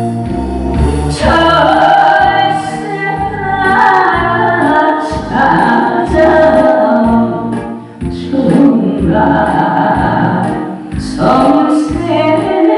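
A woman singing a song over backing music with a steady bass beat.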